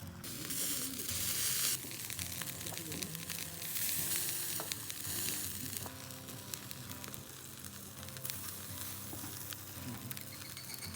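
Salted ayu (sweetfish) sizzling as they grill over a small fire, the hiss swelling and easing three times with scattered small pops.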